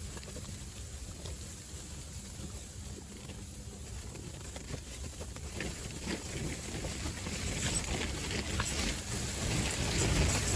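Strong wind buffeting the microphone as a low rumble, growing louder over the second half, with scattered light ticks.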